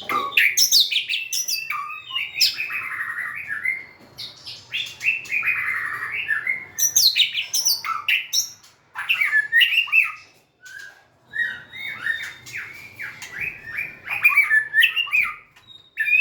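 White-rumped shama singing: loud, varied phrases of quick rising and falling whistled notes mixed with fast rattling trills, broken by short pauses.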